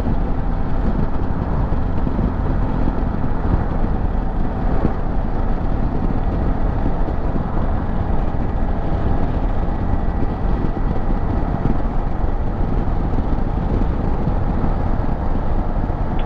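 Motorcycle riding steadily at road speed: a constant mix of engine and wind noise with no change in pace.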